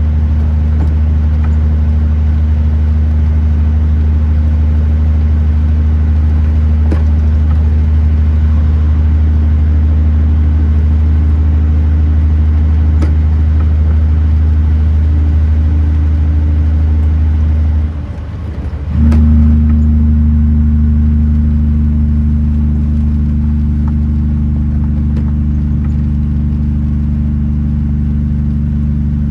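Kenworth T909 truck's diesel engine droning steadily on the road. About eighteen seconds in, the drone drops away for about a second and comes back slightly lower in pitch, as at a gear change.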